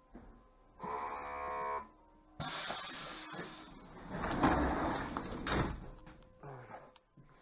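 Inside an EN57 electric train carriage: a pitched signal tone lasting about a second, then a few seconds of loud hissing and rumbling noise with several sharp knocks, fading away near the end.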